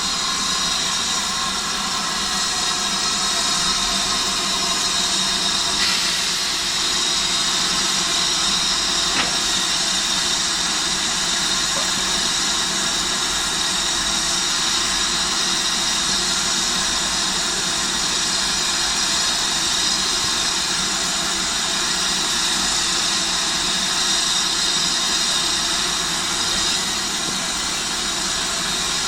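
Railway locomotive standing with its engine running steadily, a constant hum and hiss with several held tones.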